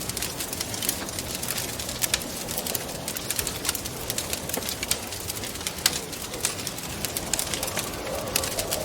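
Wood fire crackling, with many sharp pops and snaps, over a steady rush of wind. A low wavering moan of wind swells near the end.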